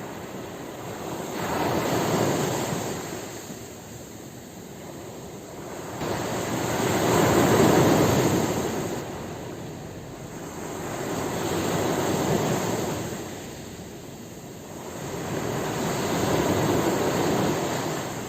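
Ocean waves breaking on a shore: four swells of surf, about five seconds apart, each building and then washing away.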